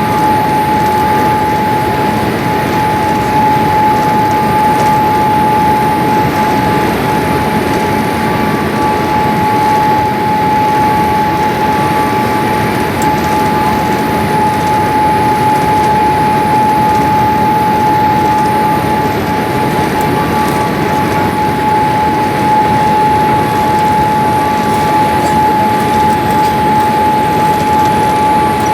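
Steady jet-engine noise inside the cabin of a Boeing 787-8: a loud, even rush with one constant high whine running through it.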